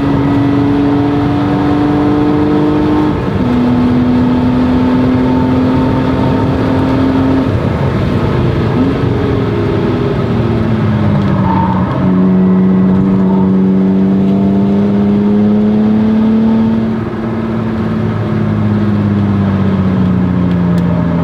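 1997 BMW E36 M3's 3.2-litre inline-six, breathing through a Strömung cat-back exhaust, running hard at fairly steady revs. The pitch falls away about eight seconds in as the car slows, climbs slowly again, then drops off near the end.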